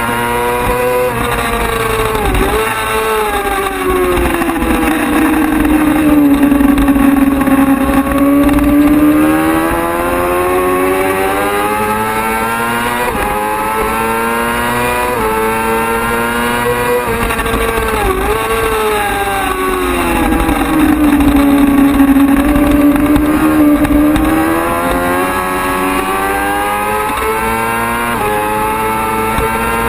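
Racing motorcycle engine running hard, its revs sweeping up and down continuously. The pitch sinks twice into a long, slow dip and climbs again, with a few brief sharp drops in between.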